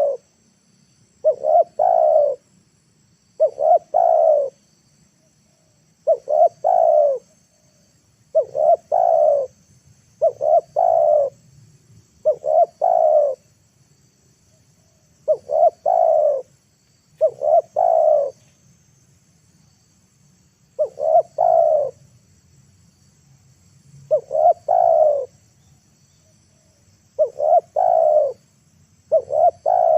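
Spotted dove (tekukur) cooing over and over, a phrase about every two seconds, each a couple of short notes then a longer falling coo: a decoy dove calling to draw wild doves down.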